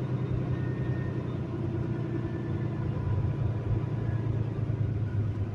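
Semi truck's diesel engine running steadily at low speed, a constant low hum.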